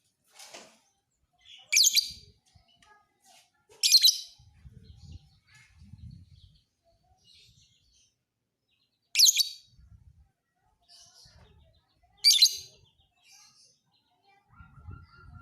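Lovebird chirping, with four loud, short, shrill bursts spaced a few seconds apart and fainter chirps in between.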